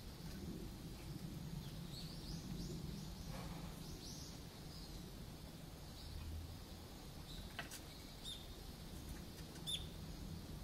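Faint high chirps of small birds: a quick run of several short rising notes about two seconds in, then a few sharp clicks and single chirps near the end, over a low steady hum.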